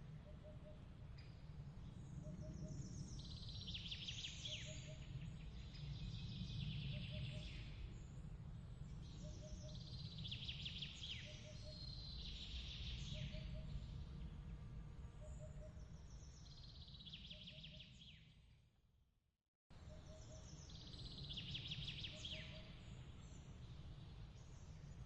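Night ambience track of trilling chirps every few seconds over a low, steady rumble, with a short doubled call repeating about every second and a half. The whole bed fades out just before two-thirds of the way through, then cuts straight back in at a loop point.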